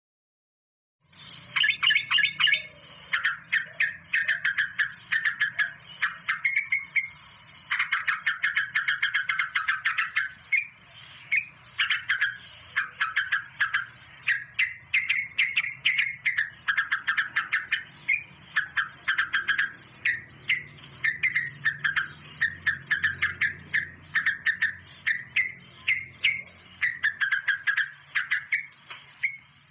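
A bird calling over and over in quick chattering phrases, each a rapid run of short high notes about a second long, starting about a second in.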